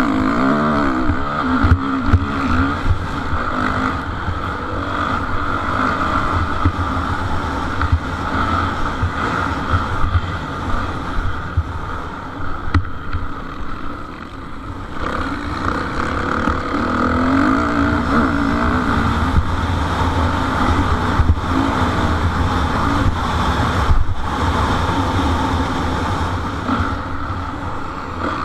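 Motocross motorcycles racing, their engines revving up and down continuously, with a brief dip in loudness about halfway through.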